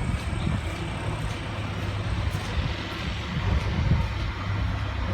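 Road vehicle noise: a steady low rumble of engines and traffic.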